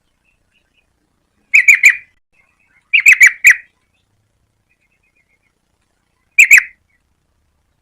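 Yellow-vented bulbul calling: three short bursts of quick chattering notes, the second burst the longest, with silence between them.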